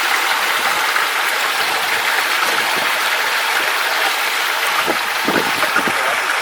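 Mountain stream rushing over rocks: a steady, even rush of running water.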